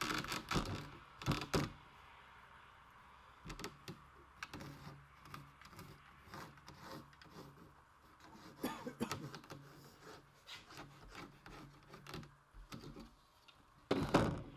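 Scattered knocks, taps and rubbing as a kayak hatch rivet ring is handled and set against a piece of plywood, with a louder cluster of knocks near the end.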